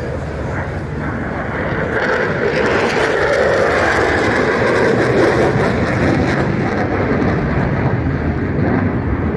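Jet aircraft passing by, its noise swelling from about two seconds in to a peak in the middle and then easing off.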